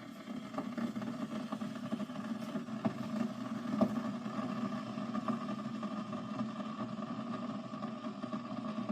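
Keurig coffee maker's small water pump running with a steady hum and a few light clicks, while its intake suction hose is blocked by a finger to draw out trapped air, which the owner reckons is why the machine kept making noise and would not brew.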